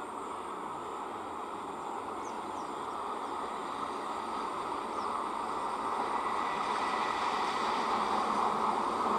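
Electric multiple-unit (EMU) suburban train approaching, a steady rumble of wheels on rail that grows gradually louder as it nears.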